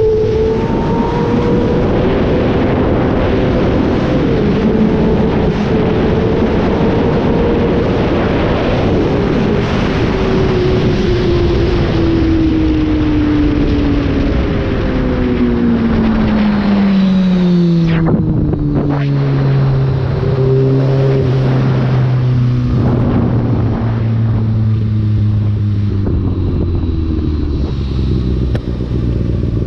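Kawasaki ZX-6R inline-four engine, its pitch falling in several steps as the bike slows and shifts down, then running at low revs. Wind noise rushes over the microphone throughout and thins as the bike slows.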